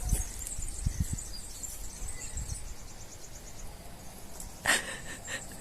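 Insects trilling in a high, rapid, evenly repeating chirp, with a brief, louder sharp sound near the end.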